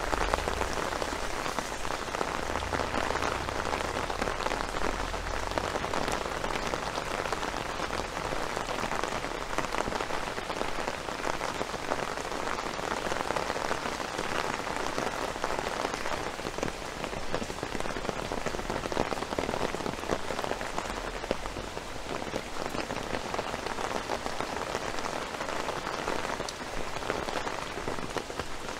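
Steady rain falling on hard surfaces, a dense even patter of countless drops. A faint low rumble runs under it for the first few seconds and briefly again about two-thirds through.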